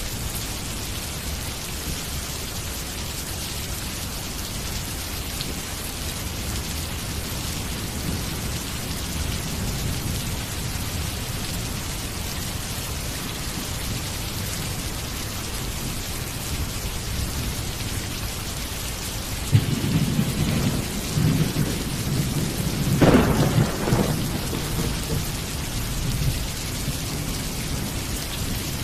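Steady rain falling, with low thunder rumbling under it. About two-thirds of the way in, a thunderclap breaks out suddenly, cracks loudest a few seconds later, and rolls away over several seconds.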